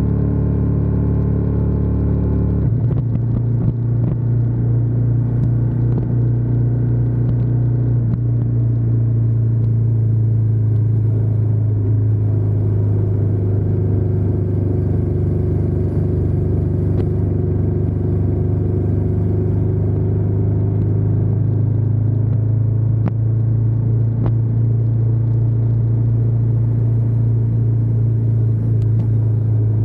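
Ducati Diavel 1260S's 1262 cc Testastretta V-twin running under way, a steady low rumble from the exhaust. Its note changes abruptly about three seconds in, then holds steady at a cruising pace.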